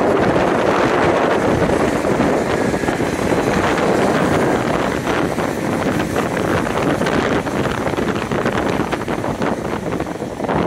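Northern Ireland Railways Class 3000 diesel multiple unit running past and pulling away, heard under heavy wind buffeting on the microphone.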